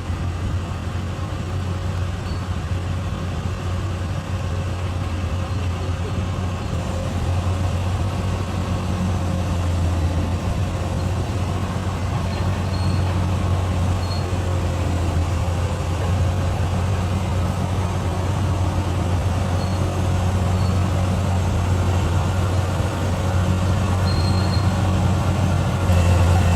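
Bulldozer's diesel engine running steadily under load, a deep continuous drone that grows slightly louder over the clip.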